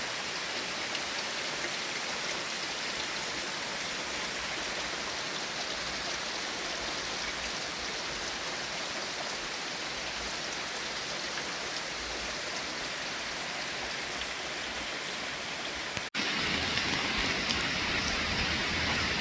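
Rain falling steadily, an even hiss of many drops. It drops out for an instant about 16 seconds in and comes back louder.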